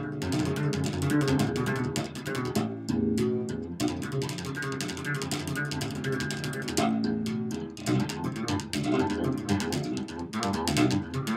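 Wolf KTB six-string fretless electric bass played through an amp with tapping technique: a fast, busy run of many short notes.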